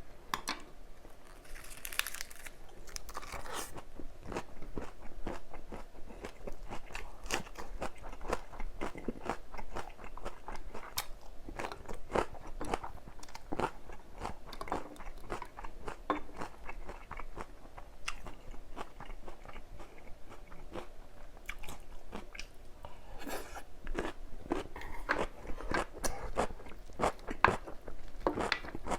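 A person chewing and biting crunchy vegetables: a steady run of irregular crisp crunches.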